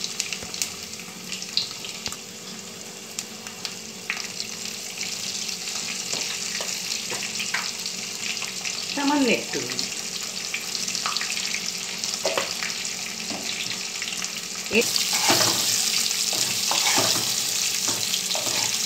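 Slices of spiny gourd (kakrol) sizzling as they shallow-fry in oil in a nonstick wok. The sizzle grows louder about three-quarters of the way through as a wooden spatula turns the slices, with a few knocks and scrapes against the pan.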